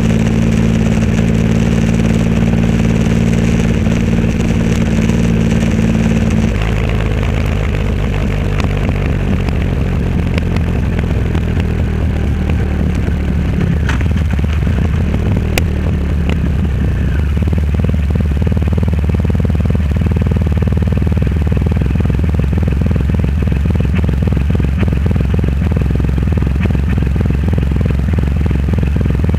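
Triumph Rocket 3 Roadster's three-cylinder engine running through a custom exhaust while riding: a steady engine note that drops to lower revs about six seconds in and then holds there.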